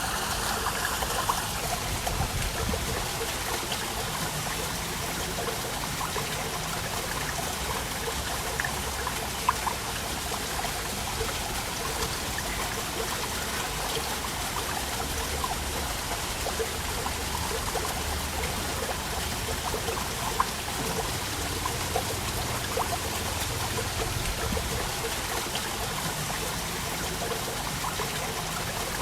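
Waterfall running steadily, a continuous rush of falling and splashing water, with a couple of brief sharper splashes standing out.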